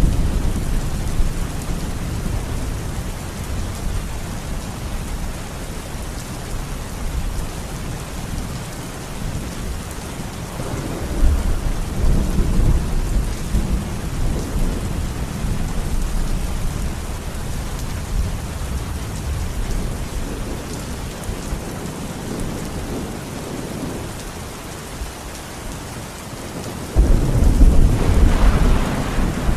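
Steady rain falling, with rolling thunder: a low rumble swells about a third of the way in, and a sudden, louder rumble breaks in near the end.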